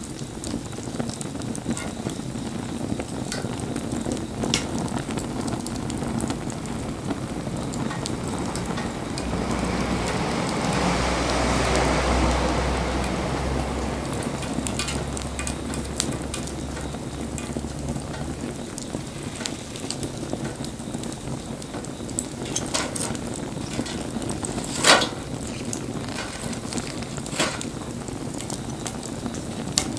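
Wood burning in an open bonfire, crackling and popping steadily, with one sharp loud pop about 25 seconds in. A low rumble swells and fades around the middle.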